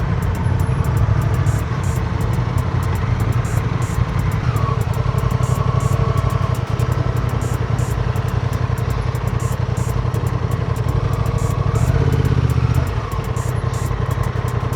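Motorcycle engine running steadily under way, a little louder around twelve seconds in before easing off.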